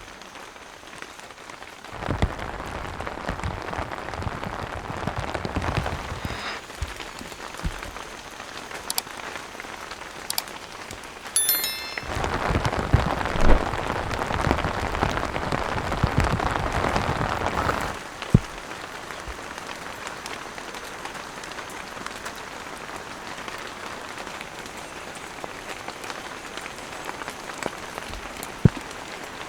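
Rain falling steadily on a tent awning. There are two louder stretches of heavier rain noise that start and stop abruptly, the first about two seconds in and the second from about twelve to eighteen seconds. A few light clicks and knocks are heard.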